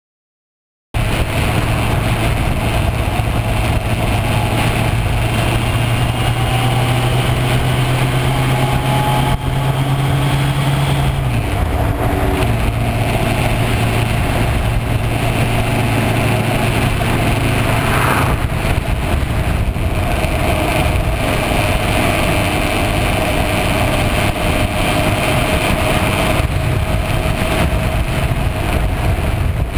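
Yamaha FZS600 Fazer's inline-four engine running on the move, starting abruptly about a second in, under a steady rushing noise. The engine note drops about eleven seconds in and then holds steady.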